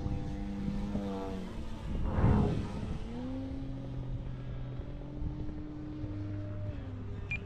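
Electric motor and propeller of a 67-inch Extra 260 RC aerobatic plane droning in flight, the pitch dropping and rising as the throttle changes. A brief loud rush about two seconds in.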